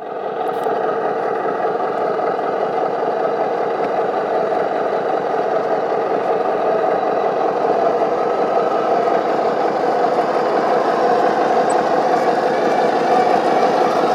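Radio-controlled model heavy truck running, a steady engine-like drone that holds an even pitch throughout.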